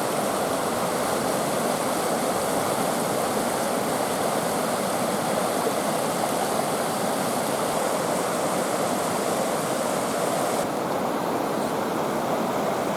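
Steady rush of flowing water over rocks. The higher hiss drops a little about eleven seconds in.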